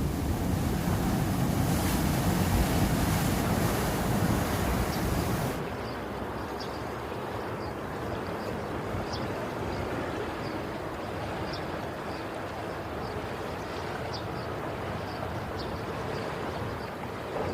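Sea surf washing with wind buffeting the microphone; about five and a half seconds in the wind rumble drops away abruptly, leaving a steadier, quieter wash of the sea with faint short high chirps.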